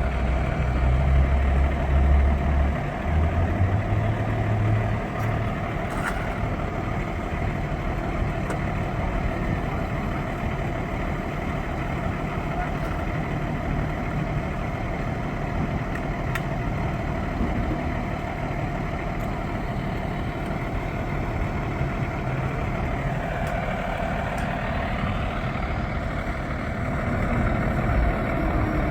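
A motor vehicle's engine running steadily with road or traffic noise, with a heavier low rumble for the first few seconds.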